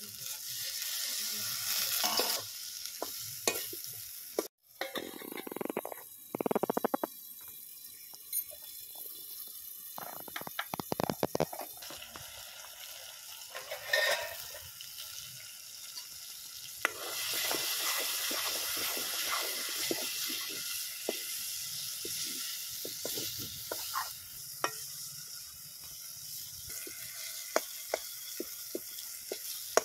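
Tomatoes and spiced masala frying in a metal kadai: a steady sizzle, with a steel spoon scraping and clicking against the pan as it is stirred. The sizzle gets louder about halfway through.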